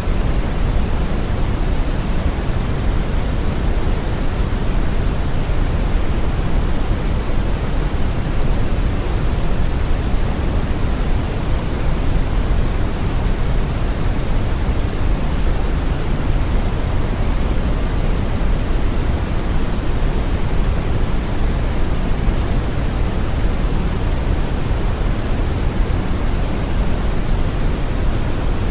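Steady brown noise: a deep, even hiss with no tones or events, loudest in the low rumble and fading toward the treble.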